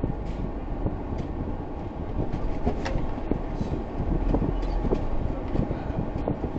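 Road noise inside a moving vehicle picked up by a dashcam: a steady low rumble with many small irregular knocks and rattles.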